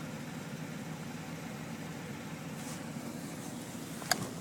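Idling 4.1-litre carbureted V6 of a 1981 Buick Electra 225, a steady low hum. There is a single sharp click about four seconds in.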